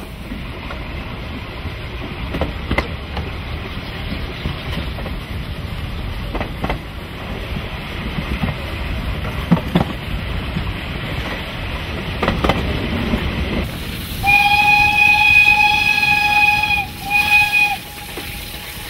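Narrow-gauge steam train running with occasional sharp clicks from the wheels. Near the end, the Romanian-built steam locomotive's whistle gives one long blast of about two and a half seconds, then a brief break and a shorter blast.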